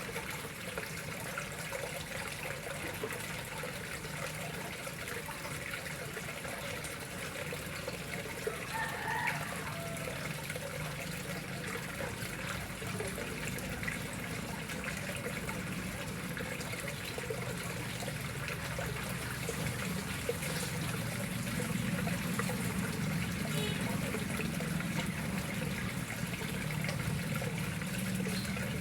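Water flowing steadily into a koi pond, a continuous trickling and splashing.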